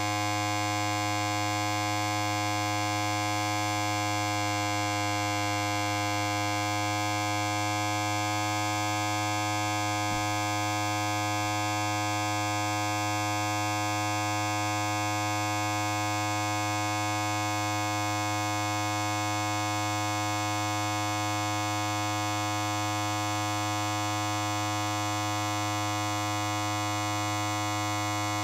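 Electric hair clipper running continuously with a steady, unchanging buzz.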